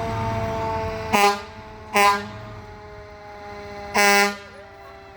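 Fire engine's air horn sounding three short, loud blasts: two about a second apart, then a third about two seconds later. Under them, a steady siren tone slowly falls in pitch and fades over a low engine rumble.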